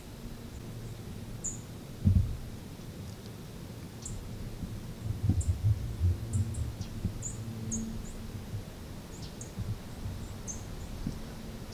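Small birds giving short high chips scattered throughout, over low thumps and rumbling around two seconds in and again between about five and seven seconds.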